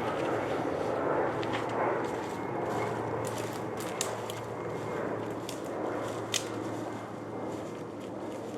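Twigs and brush snapping and crackling underfoot as someone pushes through a thicket, with sharp snaps about four and six and a half seconds in. Behind them runs the steady drone of a propeller airplane passing overhead.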